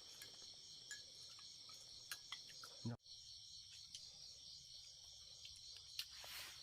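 Insects chirping steadily in a high, pulsing chorus, with a few faint light clicks. The sound drops out briefly about three seconds in.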